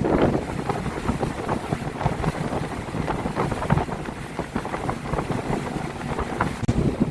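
Motorboat running under way: a steady low engine and hull rumble with water knocking and splashing irregularly against the hull, and wind buffeting the microphone.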